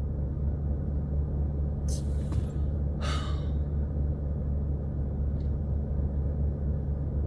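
Steady low rumble of a car's engine idling, heard inside the cabin, with two short breathy hisses about two and three seconds in.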